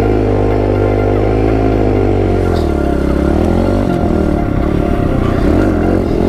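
Pit bike engine running, its pitch steady at first, then dipping and climbing back up about three seconds in, after which it runs choppier and less even.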